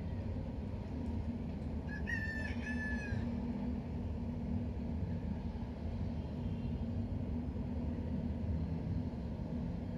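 A rooster crowing once, about two seconds in, lasting roughly a second, over a steady low background rumble.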